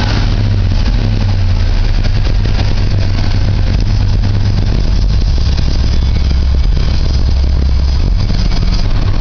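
GM ZZ4 350 small-block V8 crate engine with a Holley 750 double-pumper four-barrel carburettor, idling steadily.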